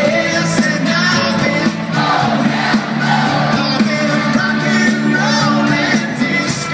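Live pop-rock band playing a song, a male lead voice singing over a steady drum beat and full band.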